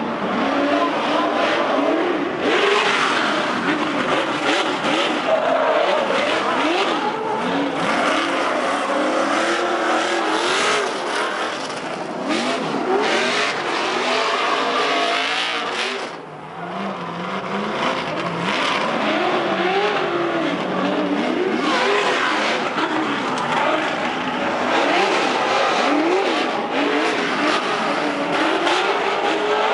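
Off-road race trucks running with engines revving up and down, with tyre noise.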